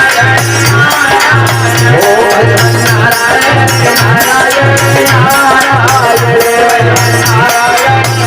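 Indian folk devotional music playing as an instrumental passage: a hand drum keeps a steady beat about once a second under a melodic line, with a shaker rattle on the rhythm.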